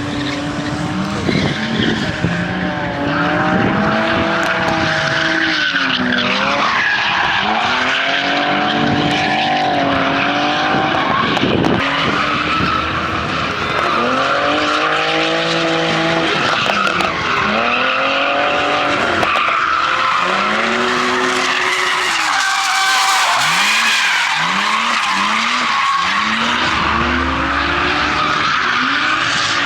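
Drift cars sliding with their tyres squealing continuously, and engines revving hard, the pitch climbing and dropping over and over as the throttle is worked.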